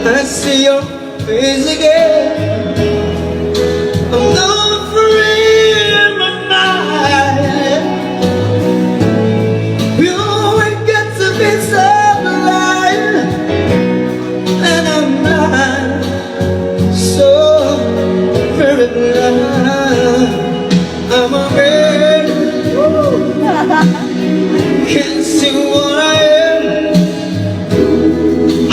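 A man singing a song over instrumental accompaniment, holding long notes that waver in pitch.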